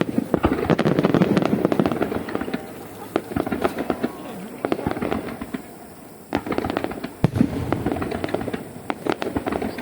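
Aerial fireworks bursting in quick succession, with dense crackling and popping. Activity thins out about halfway through, then two sharp single bangs come a second apart.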